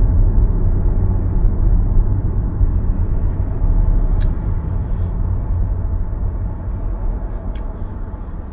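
Car driving through city traffic: a steady low road and engine rumble that grows gradually quieter over the last few seconds.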